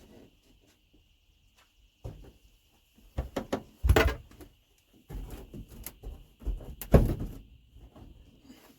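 Irregular knocks, thuds and clatter of interior panels and trim being handled and pulled inside an RV, loudest about four and seven seconds in.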